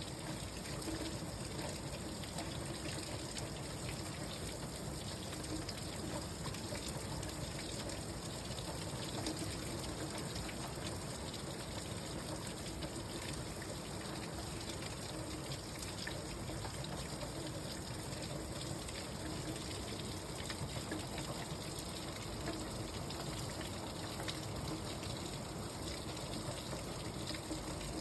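Steady rain falling, an even hiss of water with many small drop ticks throughout.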